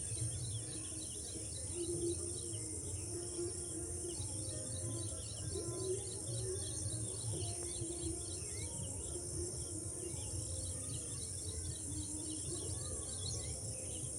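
A flock of small birds chirping and twittering in quick repeated calls, over a steady high-pitched drone of crickets.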